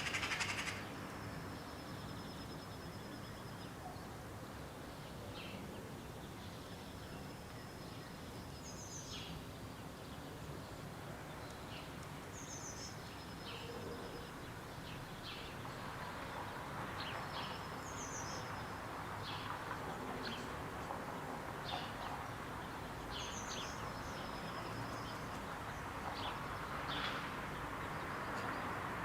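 A small songbird repeating a short, high song every few seconds: a thin high note followed by a quick trill. Under it is a steady hiss of outdoor background noise, and a brief loud harsh burst comes at the very start.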